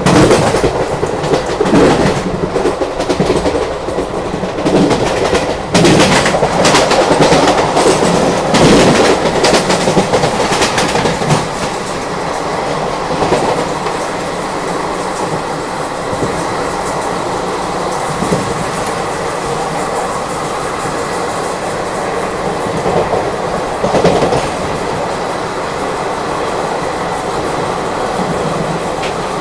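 Passenger train running at speed, heard from an open coach door: wheels clattering over rail joints with many sharp clacks for the first dozen seconds, then a steadier rush of rail noise while a goods train of open freight wagons runs past on the next track.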